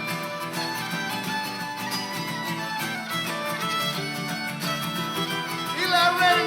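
Live country band playing an instrumental break, with a fiddle taking the lead melody over the band's accompaniment.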